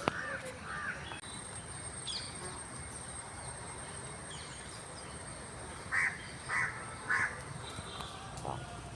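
A crow cawing three times, about half a second apart, over a steady outdoor background hiss.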